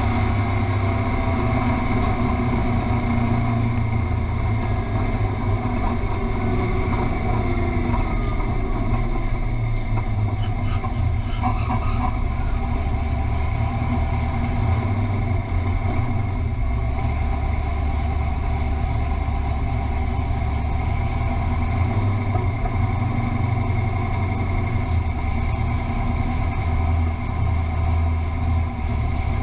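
Fox body Ford Mustang's engine running steadily at low revs, a deep, even rumble with no hard revving.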